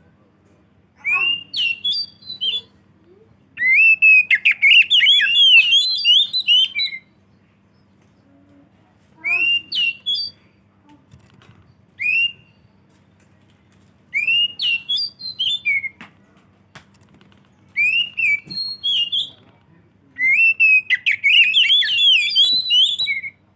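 Oriental magpie-robin singing loudly in bursts of rich, varied whistled phrases of quick up-and-down notes, each lasting one to three seconds, with short pauses between them.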